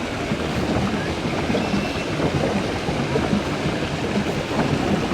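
Pedal boat's paddle wheels churning the pond water: a steady rushing, splashing noise.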